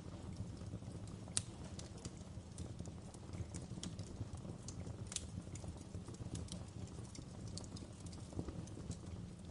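Wood fire crackling: irregular sharp pops and snaps over a steady low rumble of the flames, with two louder pops about a second and a half in and about five seconds in.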